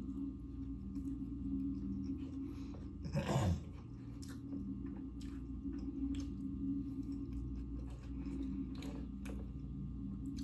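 A person chewing food and eating from a bowl, with scattered small clicks of the utensil, over a steady low hum. A brief louder sound comes about three seconds in.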